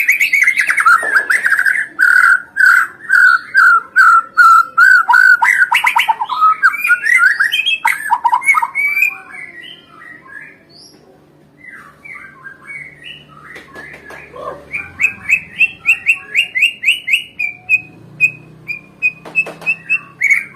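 White-rumped shama singing in fast runs of repeated whistled notes and chips. The song drops to quieter, scattered phrases about nine seconds in, then builds again into a rapid series of repeated notes from about fifteen seconds.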